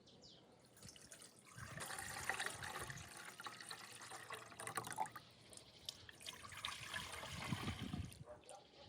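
Liquid trickling and splashing in small spurts, fairly quietly.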